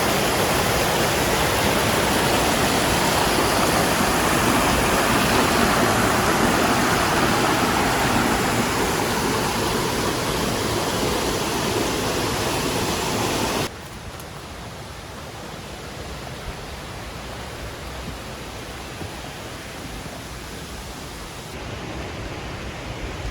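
Steady rushing noise with no pitch to it. About fourteen seconds in it drops suddenly to a much quieter hiss, and there are a few faint knocks near the end.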